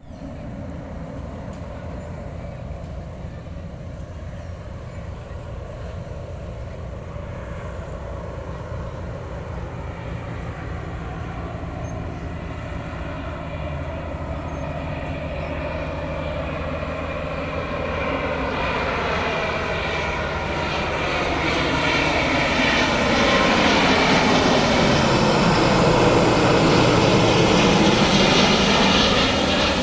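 Airbus A350-900 airliner's Rolls-Royce Trent XWB turbofans on final approach, getting steadily louder as it comes in. The sound is loudest near the end as it passes close, with a whooshing shift in pitch.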